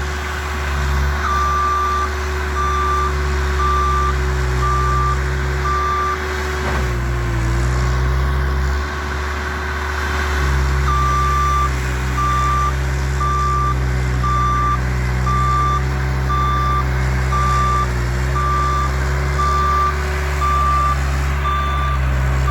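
Bobcat skid-steer loader's diesel engine running steadily while its reversing alarm beeps at an even rate as it backs up. The beeping comes in two runs with a pause of about five seconds near the middle, when the engine note briefly dips.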